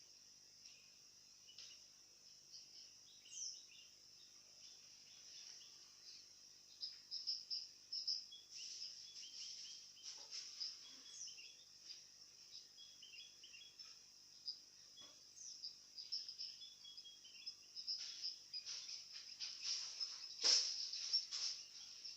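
Small birds chirping and twittering in quick high notes, over a steady high-pitched insect-like buzz. A sharp click sounds about twenty seconds in.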